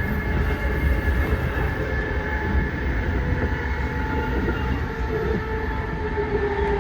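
A train hauled by a JR Freight EF210 electric locomotive, carrying new Tobu 90000 series cars, passing at speed. Wheels rumble and clatter steadily on the rails, with a few steady whining tones over the rumble.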